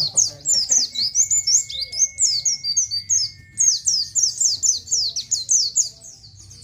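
A pleci (white-eye) singing a fast, chattering run of high, down-slurred 'ciet' chirps, several a second, with hardly a pause. The song thins out near the end.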